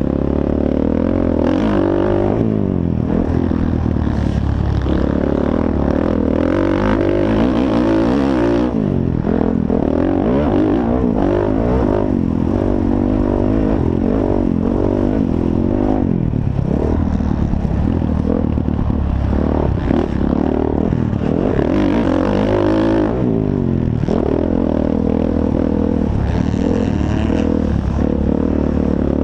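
Motocross dirt bike engines revving up and down over and over, pitch rising and falling with the throttle.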